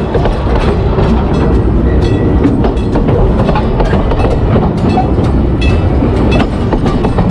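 Train running along the track: a loud, steady rumble with wheels clicking irregularly over the rail joints.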